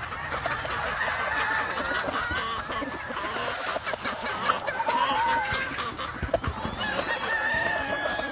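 Gamefowl chickens clucking and calling over one another, with roosters crowing among them and a longer held crow near the end.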